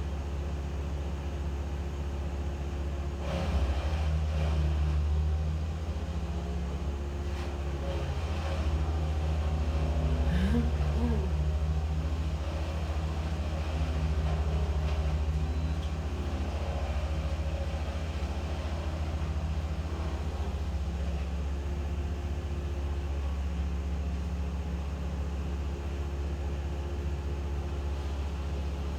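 An engine running steadily at low revs, a continuous low hum that swells slightly a few times.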